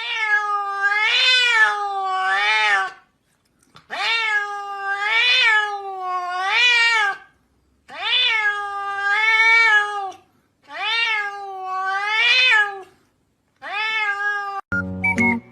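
Domestic cat meowing: long drawn-out meows that rise and fall in pitch, in runs of two or three with short pauses between. Music comes in near the end.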